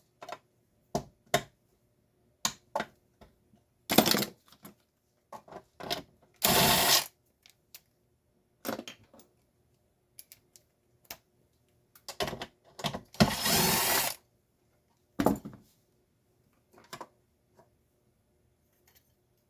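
A power drill-driver spins in two short runs, one about half a second long and one about a second long. Scattered clicks and knocks come from parts being handled between the runs.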